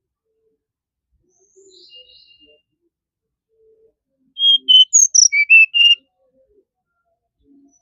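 Brown-chested jungle flycatcher singing: a few faint high notes about two seconds in, then a loud quick phrase of about seven clear whistled notes, some sliding down in pitch, starting about four and a half seconds in.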